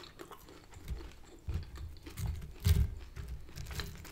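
Close-miked chewing of an oven-baked curly fry: wet mouth clicks, then from about a second in a run of low chewing thuds, several a second.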